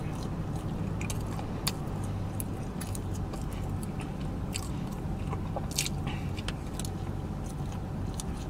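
Close-miked chewing and lip-smacking of food, with scattered wet clicks at irregular intervals, over a steady low hum.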